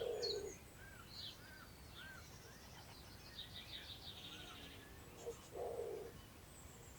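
Distant wild birds singing in open countryside: a run of short arched notes, then a fast high trill a few seconds in, and a lower call twice, once at the start and once near the end, over a faint steady hiss of outdoor air.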